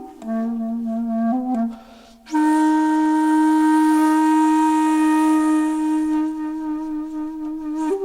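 Background music on a flute-like wind instrument: a few short notes, a brief pause, then one long held note.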